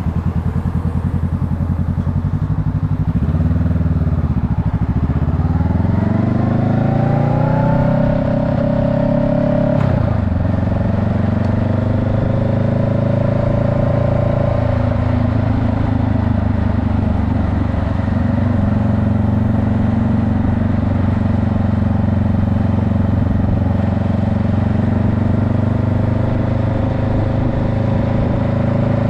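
Vehicle engine running hard. Its pitch dips, then climbs for a few seconds and drops abruptly about ten seconds in, like a gear change, before holding fairly steady.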